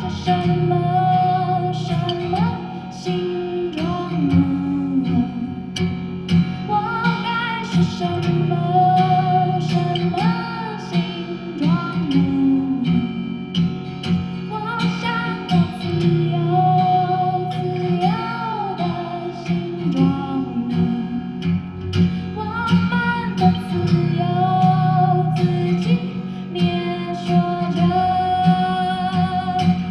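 Live song: a woman singing held, gliding notes over guitar accompaniment.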